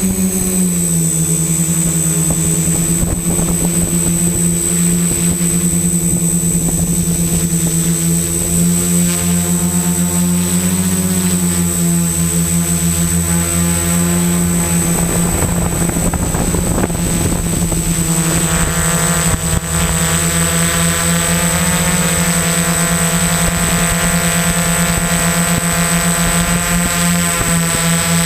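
XAircraft X650 Pro V4 quadcopter's electric motors and propellers buzzing steadily in flight, the pitch shifting a little a few times as the throttle changes.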